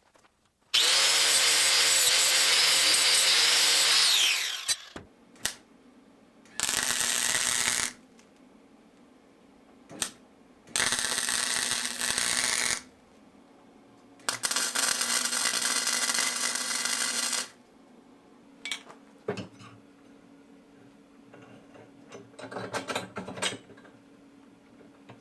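A power tool run four times in bursts of one to three and a half seconds, the first and longest winding down in pitch as it stops; a few light clicks and a faint rattle follow near the end.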